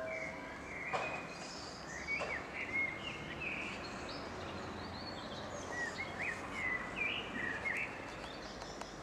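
Small birds chirping, a string of short rising chirps that come thickest a couple of seconds in and again in the second half, over a steady outdoor hiss.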